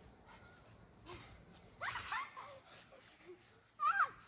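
Steady high-pitched insect chorus, with a few faint brief calls from another source about two seconds in and again near the end.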